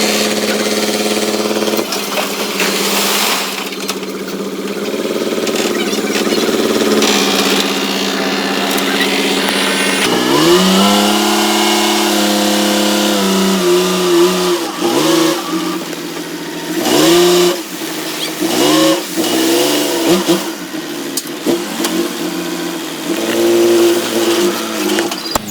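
Diesel engine of heavy earthmoving machinery running steadily. From about ten seconds in it revs up and down repeatedly in short surges.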